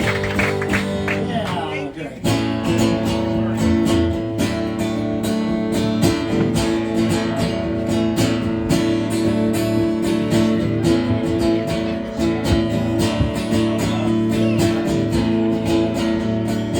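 Live music: a strummed acoustic guitar with the band, playing an instrumental intro. The playing starts in full with a steady rhythm about two seconds in.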